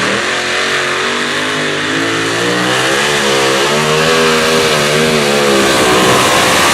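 A competition pulling tractor's engine running hard under load, its pitch wavering up and down, over a loud steady rush of exhaust noise. The engine's tone fades near the end, leaving the rush.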